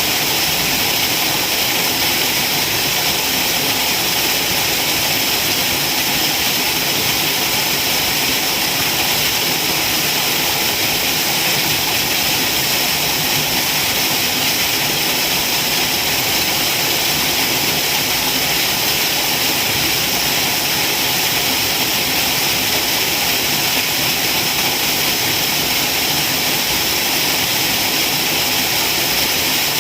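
Waterfall: a steady, unbroken rush of falling water, mostly a high hiss.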